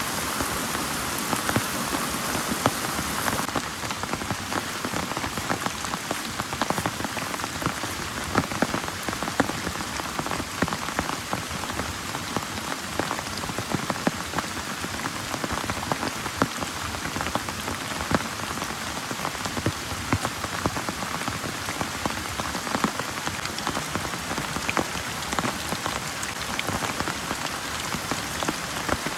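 Heavy rain pouring steadily, with many sharp clicks of individual drops striking a surface close by.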